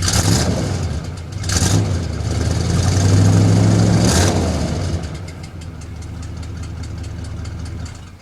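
Car engine running through its exhaust: revved in three blips, the last held for over a second, then settling back to a steady idle until it stops near the end.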